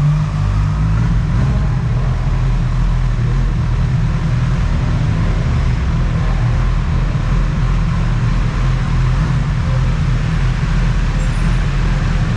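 Motorcycle being ridden: steady engine and road noise with a constant low rumble.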